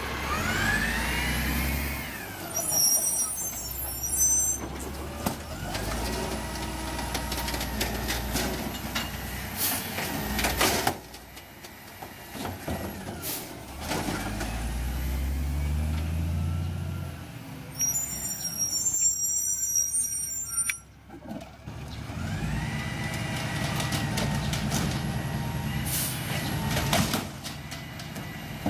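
City recycling truck at work: its diesel engine revving up and down, two spells of air hiss, and a few sharp bangs.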